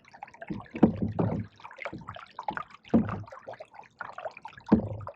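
Canoe paddles stroking through pond water, a splash and gurgle with each stroke, about every two seconds, with water dripping and trickling in between.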